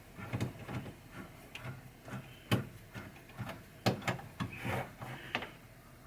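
Screws being driven by hand into the wooden mount of a pinball machine's Rudy head mechanism: scattered clicks and knocks with rubbing and scraping between them, the sharpest knocks about two and a half and four seconds in.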